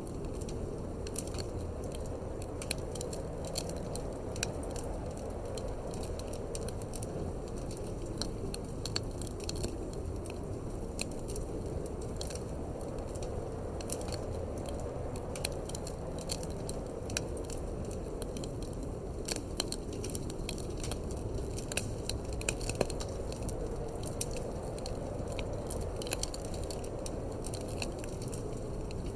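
Wood fire crackling in a fireplace, with frequent sharp, irregular pops and snaps over a steady low rumble of wind.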